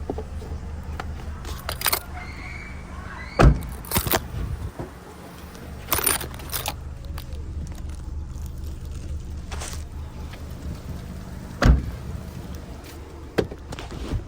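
Inside a car with the engine running: a steady low engine and road hum, with sharp knocks and clicks every few seconds, the loudest about three and a half and twelve seconds in.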